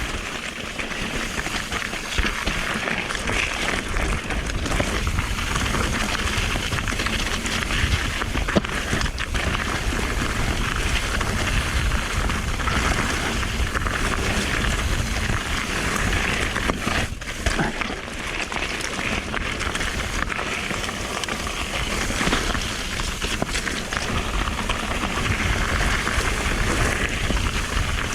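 Mountain bike riding fast over a wet, rocky trail in the rain: a steady rush of tyre, rain and wind noise, with frequent small knocks and rattles from the bike over rocks.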